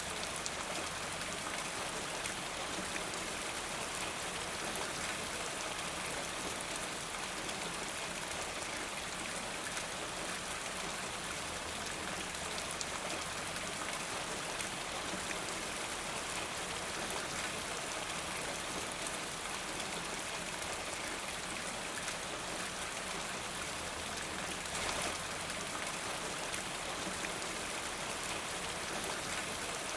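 Steady rain falling, an even hiss of many drops, with one short louder spot near the end.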